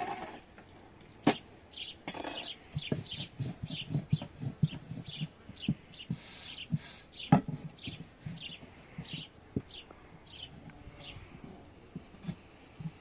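A small bird chirping over and over, short high calls about two a second, over soft low thumps, with a sharp knock about a second in and another just past the middle.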